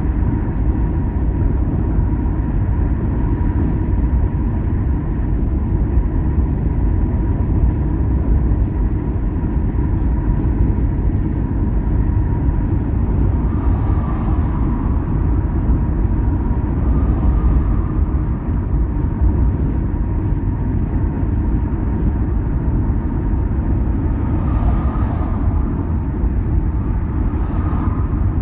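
Steady low road and engine rumble of a car driving on the highway, with a faint steady whine. A few brief louder swells come about halfway through and near the end.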